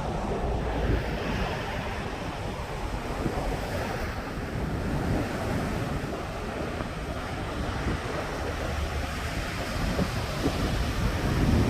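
Sea surf breaking on a sandy beach in a steady wash, with wind buffeting the microphone.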